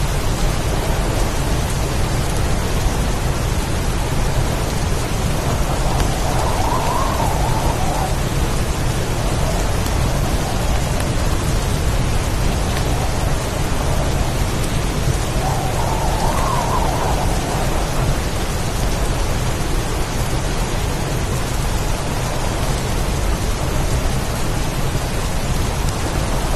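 Heavy rainstorm: dense, steady rain with a deep rumble underneath, swelling briefly twice.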